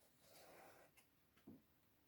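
Near silence with faint small handling noises: a soft rustle early on, a small click about a second in, and a light knock a moment later.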